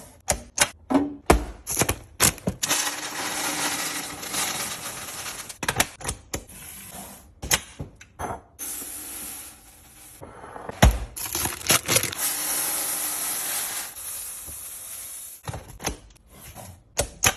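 Containers, lids and packaging being handled and set down while restocking a fridge, making many sharp clicks and knocks. Two longer stretches of steady hissing noise come in, one a few seconds in and one about two-thirds through.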